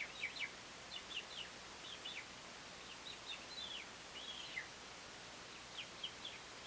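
American robins chirping: many short, high notes that sweep downward, coming in quick clusters of two or three, faint.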